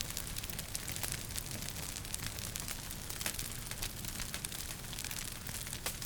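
Wood fire crackling in a fireplace: a steady stream of small, sharp pops and snaps over a low, even rumble of the flames.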